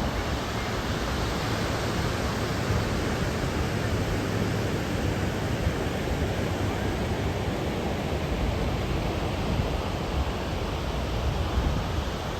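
Steady roar of surf, an even noise without breaks, with wind buffeting the microphone.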